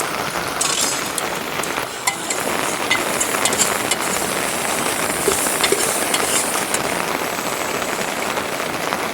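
Steady heavy rain falling, with scattered sharp ticks of drops.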